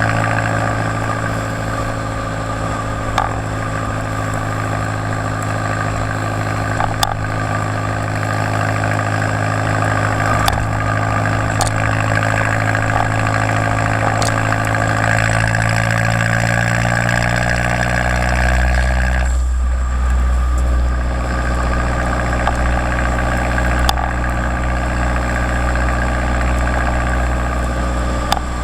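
Turbocharged 1.8T four-cylinder of a Jetta GLI idling through a 3-inch downpipe and Magnaflow race muffler. The note holds steady and creeps slightly higher, then about two-thirds of the way through drops suddenly to a deeper, lower drone.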